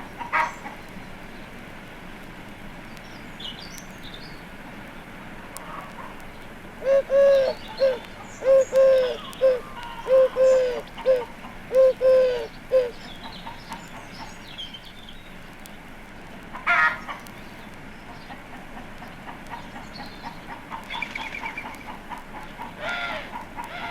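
Eurasian collared dove singing, a run of repeated cooing phrases in the middle, with a few short harsh calls near the start, in the middle and near the end. Hens cluck and a robin sings faintly in the background.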